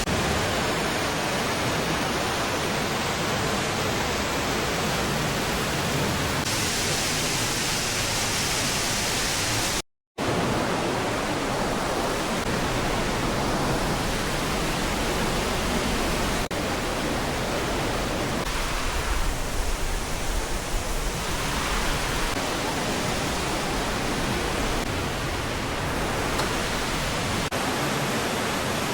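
Rushing water of a mountain stream and waterfall, a steady full roar, cut off for a moment about a third of the way through.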